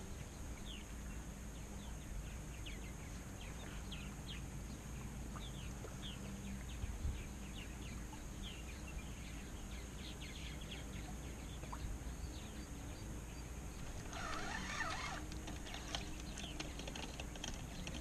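Faint small-bird chirps, a loose series of short falling notes during the first ten seconds or so, over a low steady rumble of wind and water. A brief scratchy rustle comes about fourteen seconds in.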